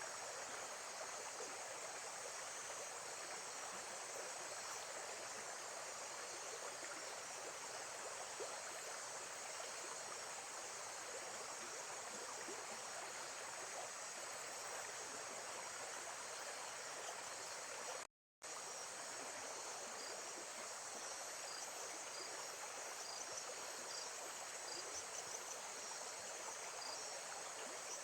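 Steady running water with a continuous high chorus of crickets or other insects. The whole recording drops to silence for a moment about two-thirds of the way through.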